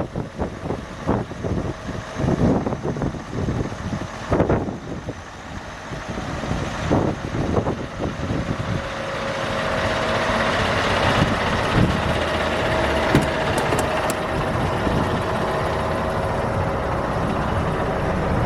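Scania R580 truck's V8 diesel engine running. Irregular gusts of wind buffet the microphone in the first half, then the engine sound grows steadier and louder from about halfway.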